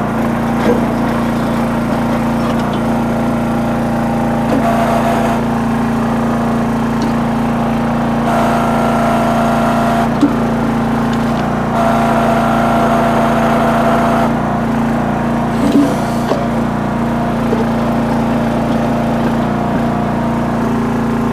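Towable backhoe's small engine running steadily under load while digging in rocky ground. A higher whine joins in twice for about two seconds each, with a few short knocks.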